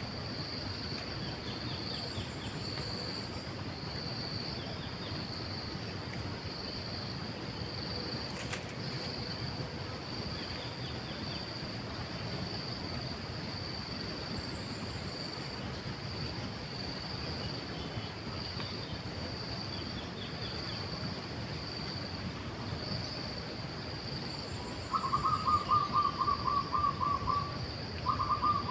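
Steady pulsing insect drone with faint, scattered bird chirps and a single sharp click. About three seconds before the end, a coucal calls a quick run of repeated hooting notes, twice, much louder than the drone.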